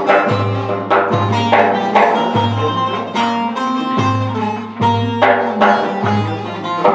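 Instrumental Turkish folk music: plucked string instruments play a melody with repeated sharply struck notes over a pulsing low bass.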